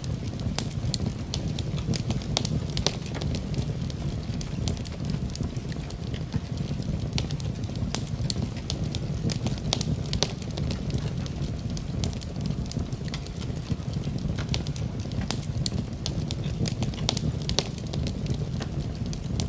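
Wood fire crackling and popping with many sharp irregular snaps, over a steady low rumble of flames mixed with rain.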